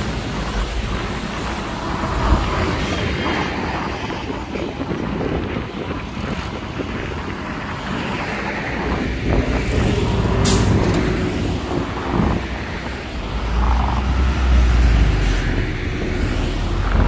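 Heavy diesel truck engine running with a low rumble that swells and eases, and a short air hiss about ten seconds in, with fainter ones earlier and near the end.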